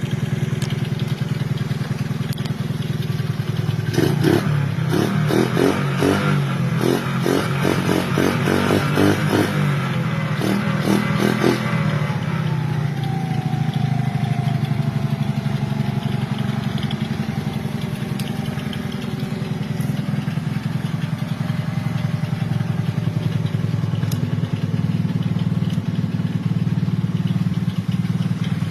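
A 2003 Johnny Pag mini chopper's motorcycle engine running at idle. It is revved in a string of quick throttle blips for several seconds, then the revs fall away and it settles back to a steady idle.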